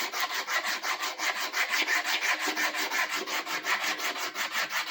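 Sandpaper rubbed by hand over a rough-cut wooden tool handle in quick back-and-forth strokes, about five a second, knocking down rough edges and splinters.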